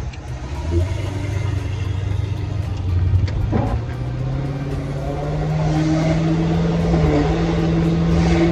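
Pontiac GTO's 6.0-litre V8, heard from inside the cabin, pulling under acceleration. Its note rises slowly and steadily, dips briefly about seven seconds in, then holds high.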